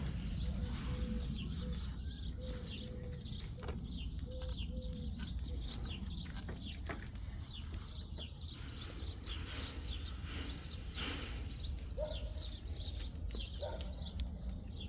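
Outdoor ambience of small birds chirping and twittering again and again, over a steady low rumble.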